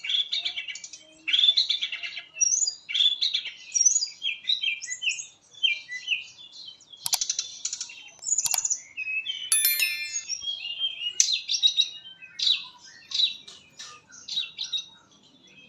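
Fulvous-chested jungle flycatcher singing a fast, varied run of short, high chattering notes in quick bursts. A few sharp clicks come about seven to ten seconds in.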